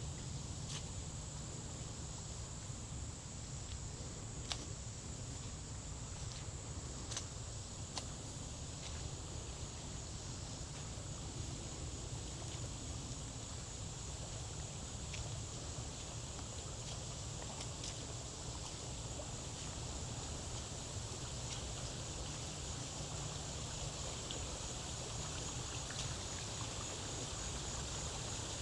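Forest ambience with a steady high-pitched insect drone, like crickets, running throughout, a few faint clicks of footsteps on the trail, and a low steady rumble underneath.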